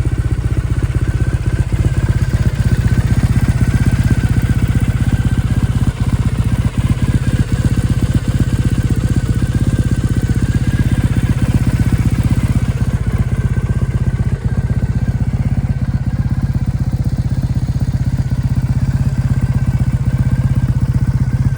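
Triumph Thruxton 900's 865cc parallel-twin engine idling steadily through an Arrow 2-into-1 aftermarket exhaust.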